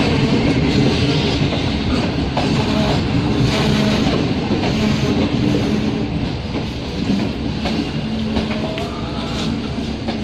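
Train running at speed, a steady rumble with wheels clicking over the rail joints.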